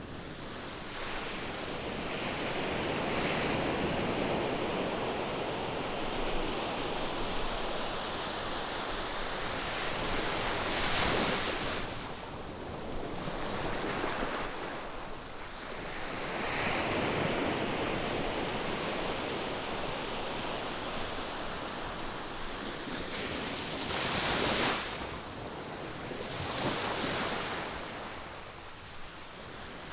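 Ocean surf breaking on a sandy beach: a continuous wash of waves that swells and eases every few seconds, with stronger breakers about a third of the way in and again past the middle. Light wind on the microphone.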